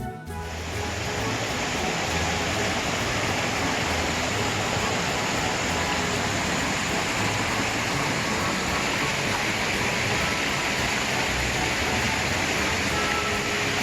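Mountain stream water rushing steadily over rocks in a valley.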